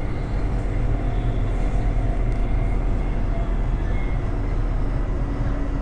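Suburban passenger train running at speed, heard from inside the carriage: a steady low rumble with a few faint hum tones.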